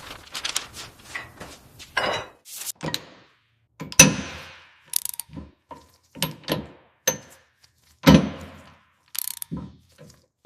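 A string of separate mechanical clicks, clanks and knocks with short gaps of silence between them. The two loudest knocks, about four seconds apart, ring on briefly; these are workshop tool sounds.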